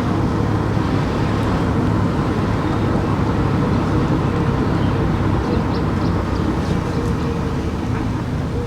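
Car driving along at a steady pace: even engine and tyre-road noise with a low hum.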